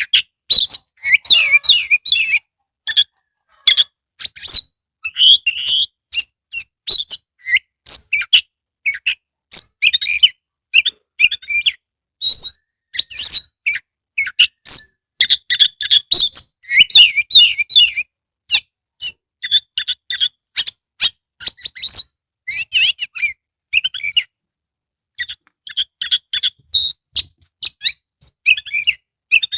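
Oriental magpie-robin (kacer) singing a long run of rapid, varied whistles and chattering notes in quick phrases with brief gaps, including a pause about two thirds of the way through.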